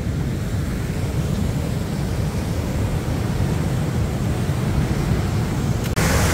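Rushing river water: a steady, low rumbling roar, which changes abruptly near the end to a brighter, hissier rush of falling water.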